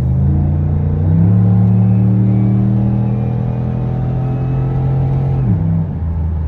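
Cammed 2008 Chevrolet Impala SS LS4 V8 on a full 3-inch straight-pipe exhaust, running under way on the highway, heard from inside the cabin. About a second in, the engine note steps up in pitch and gets louder. It holds there, then drops back near the end.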